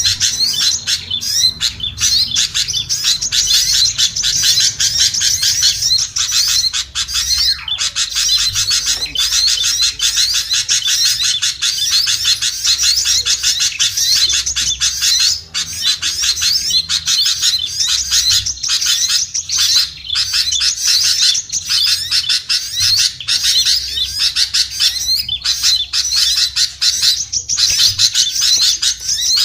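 Dense, unbroken chattering and chirping of many small songbirds at once, rapid high calls overlapping without pause: a mixed small-bird lure call recording used to draw small birds down.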